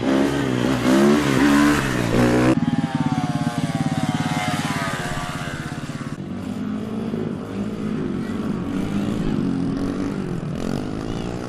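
Small motorcycle engines revving, their pitch rising and falling, in a run of short clips that change abruptly about two and a half and six seconds in; the middle stretch carries a fast low putter under the revving.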